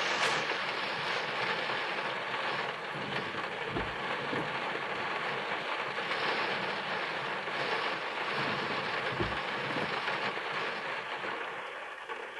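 Steady rain falling on a car's roof and windscreen, heard from inside the car, with a couple of low thumps about four and nine seconds in.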